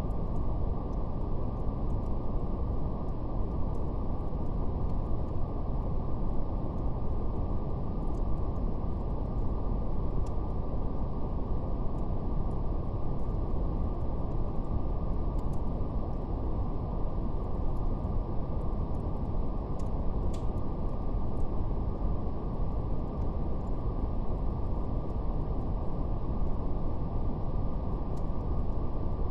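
Steady brown noise, a deep even rumbling hiss with nothing above the low and middle range, over a faint, sparse crackle of a fire with a slightly sharper pop about two-thirds of the way through.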